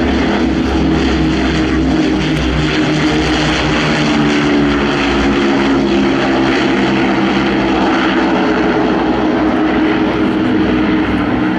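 The Avro Lancaster bomber's four Rolls-Royce Merlin V12 engines running loud and steady as the aircraft flies its display, a droning multi-tone propeller note.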